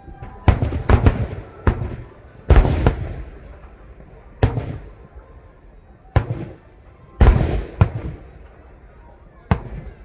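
Aerial firework shells bursting: a string of about nine loud, sharp bangs, each trailing off in a rumbling echo. The heaviest bursts come about a quarter of the way in and again about three quarters through.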